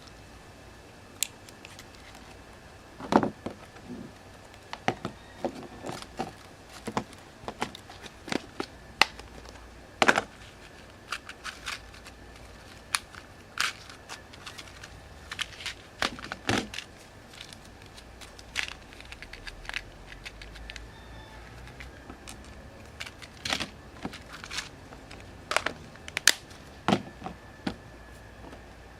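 Irregular small clicks, taps and knocks of hands handling small objects and tools at close range. A few louder knocks stand out about three, ten, sixteen and twenty-six seconds in, over a faint steady high hum.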